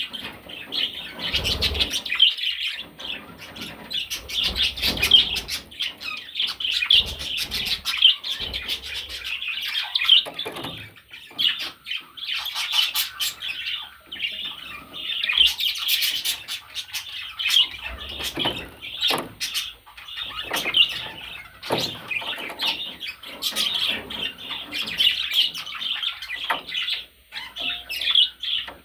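Budgerigar chattering, a continuous run of chirps, warbles and squawks with scattered clicks and a few soft thumps.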